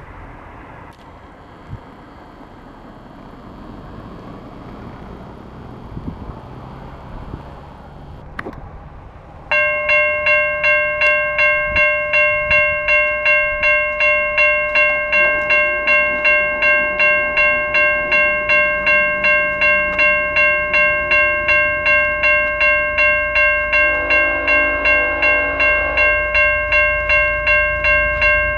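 Railway level-crossing bell starts ringing suddenly about nine seconds in, at about two strikes a second, the warning that a train is approaching. A low rumble grows beneath it near the end.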